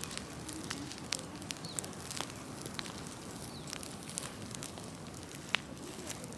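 Large open bonfire of cut brush and unwanted tree wood burning: a steady rush of flame with scattered sharp crackles and pops, one louder pop about five and a half seconds in.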